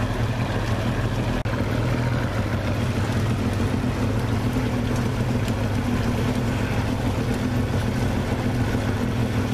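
Skiff's outboard motor running at a steady speed, a constant hum with an even hiss of wind and water over it.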